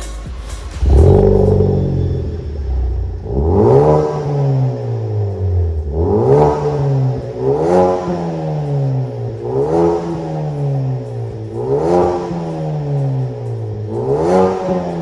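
Ford Focus ST Mk3's 2.0-litre turbo four-cylinder, heard through a valved aftermarket cat-back exhaust. After a loud burst about a second in, it is revved about six times in short blips, each rising and falling back to idle.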